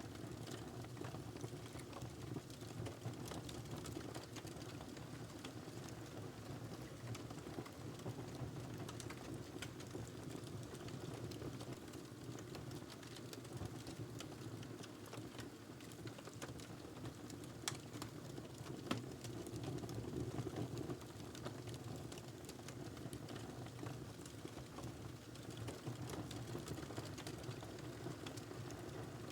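Wood fire crackling in a fireplace: a steady low rumble of burning with many small crackles, and two sharper pops a little past the middle.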